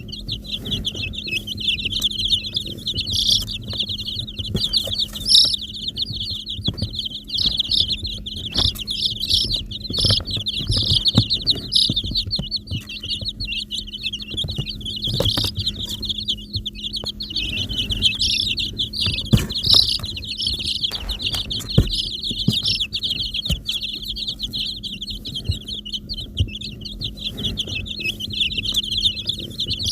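A brood of baby chicks peeping nonstop, many high overlapping chirps, with a steady low hum underneath and occasional soft knocks.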